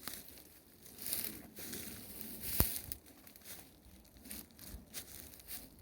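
Slow footsteps crunching and rustling on dry ground, an uneven step every second or less, with one sharp click about two and a half seconds in.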